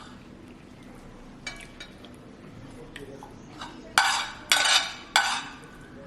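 Dishes and utensils being handled: a few soft clinks, then about three sharp, ringing clatters in quick succession near the end.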